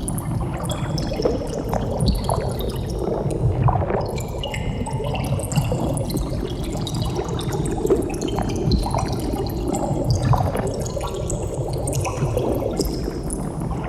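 Underwater bubbles streaming and popping: a dense low bubbling rumble with many short high plinks of small bubbles scattered through it.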